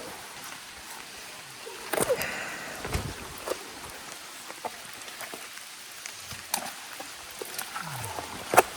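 Steady hiss of falling rain, with a few sharp knocks and clicks scattered through it.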